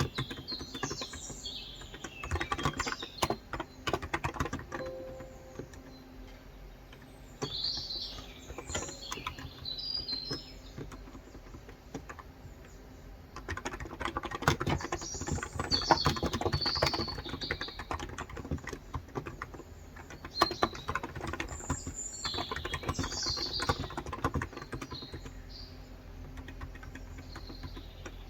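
Typing on a Cox Endeavor electrostatic capacitive (Topre-style) tenkeyless keyboard with 35 g switches: quick runs of soft key clicks in bursts, thinning out in pauses between. Birds chirp in the background throughout.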